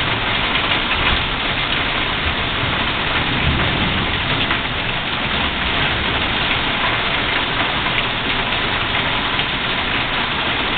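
Heavy rain falling steadily on a porch and the roofs around it, a dense even hiss.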